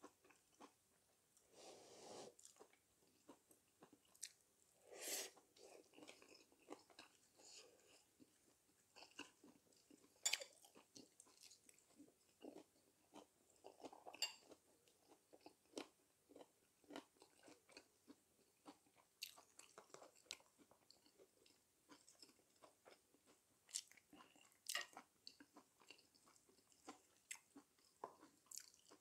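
A person chewing and biting mouthfuls of dak galbi, spicy stir-fried chicken with vegetables, wrapped in lettuce leaves: irregular wet mouth sounds and small crunches, with a few sharper bites.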